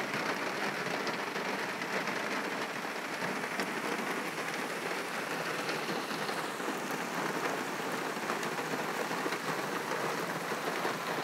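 Steady rain falling, heard from inside a car through its open door.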